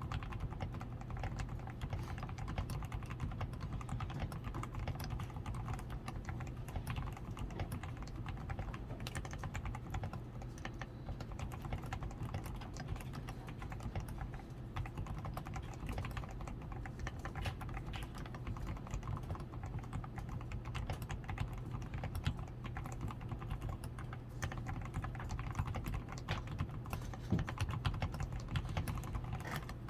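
Continuous typing on a DAREU A87 Pro mechanical keyboard whose switches are lubed with Krytox 105, with a tape-modded PCB, switch foam, lubed stabilisers and XDA keycaps: a dense, unbroken stream of keystrokes.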